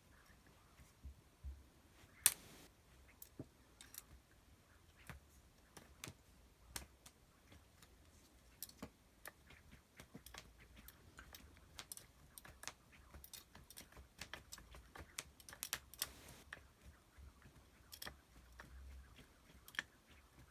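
Faint, irregular light clicks and taps scattered throughout, one sharper click about two seconds in and a busier cluster in the middle.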